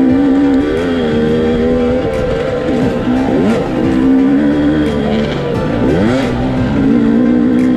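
Motorcycle engine running at a steady speed, its pitch breaking and sweeping briefly twice, about three and six seconds in, as with gear changes.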